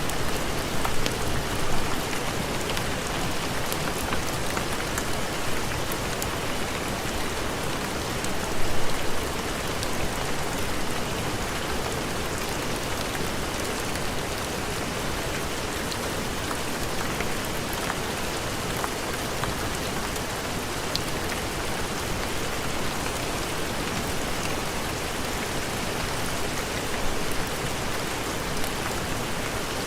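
Heavy rain falling steadily, an even hiss with scattered fine ticks of drops and a couple of brief louder swells.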